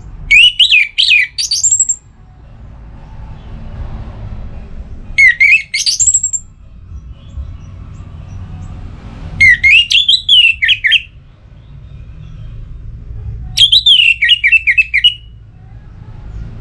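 Orange-headed thrush singing four loud phrases about four seconds apart, each a quick run of high sweeping whistled notes lasting about a second and a half, over a low background rumble.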